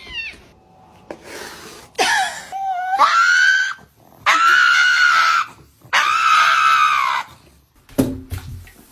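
Three loud, high-pitched screams, each about a second long, the first rising in pitch.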